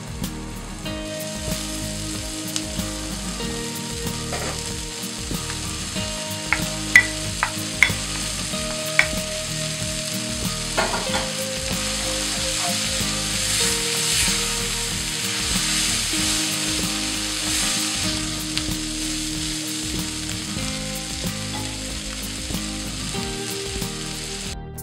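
Chicken strips with chopped onions and peppers sizzling as they fry in a pan, with a cooking utensil clicking and scraping against the pan a few times between about 7 and 11 seconds in.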